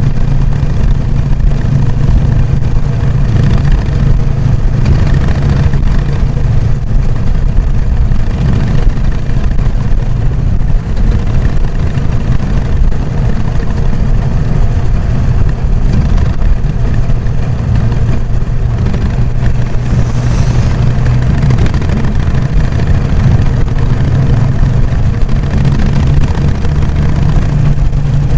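Harley-Davidson Sportster XL883N Iron's air-cooled V-twin running through its stock exhaust, a steady low beat that holds an even pitch, with only small rises and falls in engine speed.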